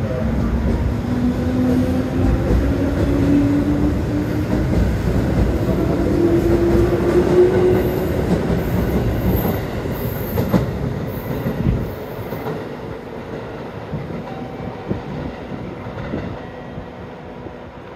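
Six-car JR 211 series 6000-subseries electric train pulling out, its motors whining with a pitch that rises as it gathers speed over a heavy rumble of wheels clacking over rail joints. A few short high squeals come around the middle. About twelve seconds in the rumble drops off suddenly as the last car passes, leaving a fainter, fading sound.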